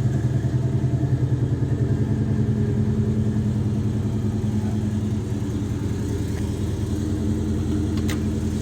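1970 Chevelle SS454's 454 big-block V8 idling, with a pulsing, uneven beat that smooths out after about two seconds. A short click is heard near the end.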